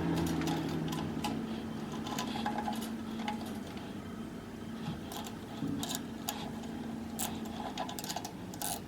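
Light metallic clicks and clinks of a spanner and nuts as U-bolts are done up by hand on a steel caravan chassis, irregular and scattered, over a faint steady low hum.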